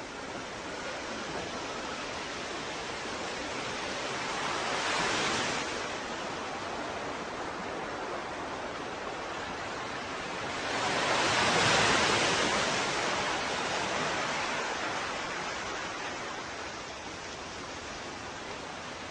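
Ocean waves washing onto a shore under a steady hiss of surf, with one wave breaking about five seconds in and a bigger one swelling and breaking around eleven to twelve seconds in, then easing back.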